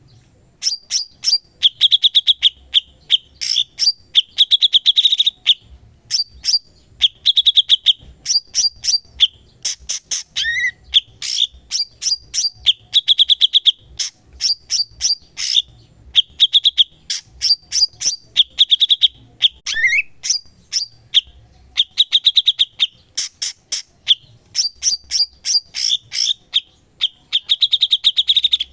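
A cucak cungkok, a caged bulbul, singing continuously: a run of rapid buzzy trills and sharp high chips, repeated every second or two, with a short rising note twice.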